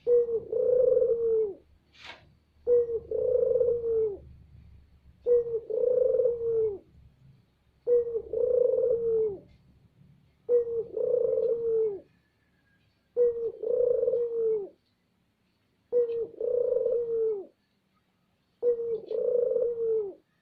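Puter dove cooing loudly: eight drawn-out coos about two and a half seconds apart, each holding a low pitch and dropping at the end. There is a short click about two seconds in.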